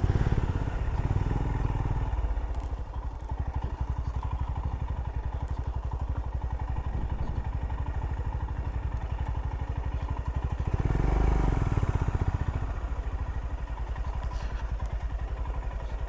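Royal Enfield Himalayan's single-cylinder engine running at low speed, a steady fast beat of firing pulses. About eleven seconds in it swells louder for a couple of seconds, a brief opening of the throttle, then settles back.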